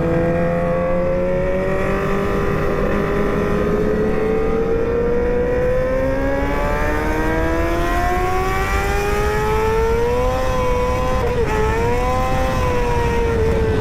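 Sportbike engine held at high revs, its pitch climbing slowly as the bike accelerates, wavering with a brief dip about eleven seconds in, then falling away near the end, over a low rumble of wind and road noise.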